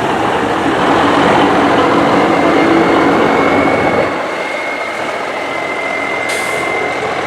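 Heavy diesel truck running as it moves through, loud at first and easing off about four seconds in. A steady high whine runs through the second half, and a short hiss comes near the end.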